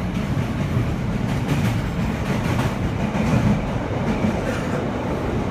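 Chicago CTA Red Line rail car in motion, heard from inside the car: a steady low rumble of the car running on the rails.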